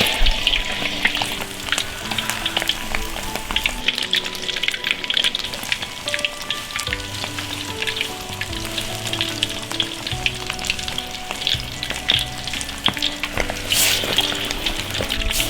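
Large beef meatballs deep-frying in plenty of hot oil: a steady sizzle full of small crackling pops as they cook until they set.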